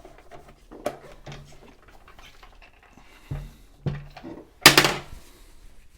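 Cleaning noises on a sewing machine's casing: scattered light knocks and rag handling, with a few dull thuds, then a short hiss of a trigger spray bottle near the end, the loudest sound.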